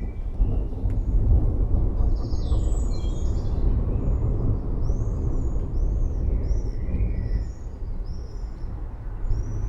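Thunder rumbling, swelling suddenly at the start, deep and long-drawn. Birds chirp repeatedly above it, mostly in the second half.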